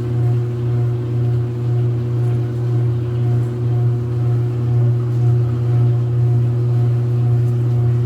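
Whirlpool dryer running: a steady low motor and drum hum with a faint beat repeating about twice a second.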